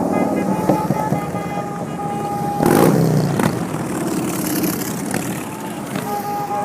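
Motorcycle running, with a steady high tone sounding on and off over it and a loud noisy surge about three seconds in.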